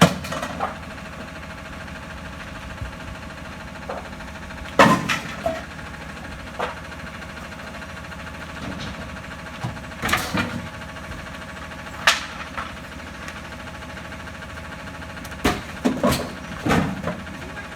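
Idling diesel engine of a McNeilus rear-loader garbage truck running steadily. Over it come several loud metallic bangs and clanks at irregular intervals, bunched together near the end, from the truck's rear loader working bulky waste.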